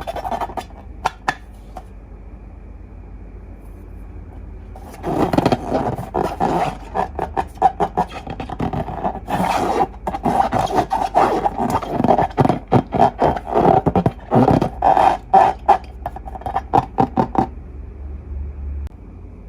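Slime and rubber balloons being handled close to the microphone. There are a few clicks at first, then from about five seconds in a long run of irregular squishing, crackling and scraping with a ringing squeak, ending a couple of seconds before the end.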